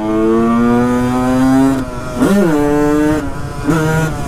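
Honda CR125's single-cylinder two-stroke engine pulling hard in fourth gear as the rider tries to lift the front wheel. The revs climb slowly for about two seconds, spike up and back down briefly, hold, then drop lower near the end.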